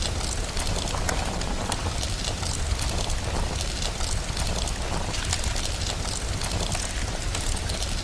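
Steady rain with a low rumble underneath, and a fire crackling with many sharp pops and snaps throughout.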